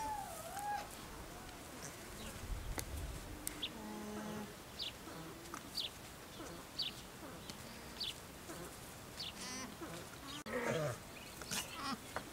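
Quiet outdoor ambience with a bird chirping: short, sharp descending notes about once a second through the middle, and a couple of brief soft pitched hums near the start and a few seconds in.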